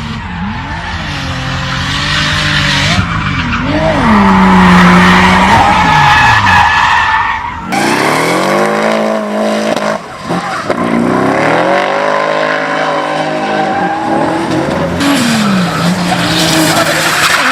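Toyota Supra Mk4's 2JZ inline-six revving up and down hard during drifts, with tires screeching. The sound changes abruptly twice, about eight seconds in and near the end.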